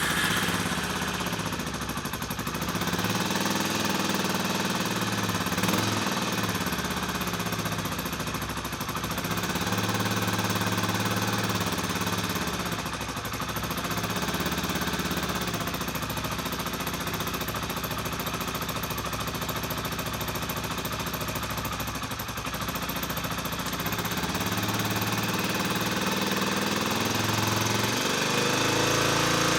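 Kawasaki Estrella's air-cooled single-cylinder engine idling steadily, just started.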